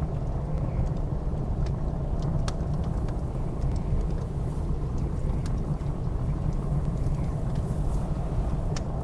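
Wood fire crackling in a fireplace, with sharp irregular pops, over the steady low rumble of blizzard wind.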